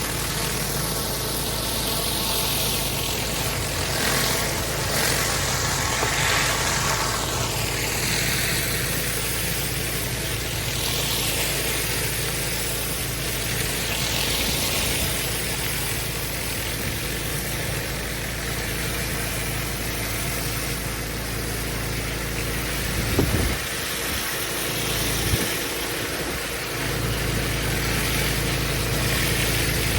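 Petrol pressure washer engine running steadily while its water jet hisses against block paving, the hiss swelling and fading as the spray moves. Two short knocks sound past the middle.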